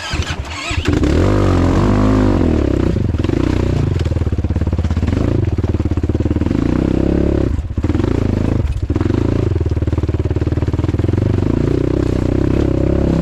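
Off-road motorcycle engine running hard under throttle, picking up about a second in. It drops out briefly twice about eight seconds in before pulling again.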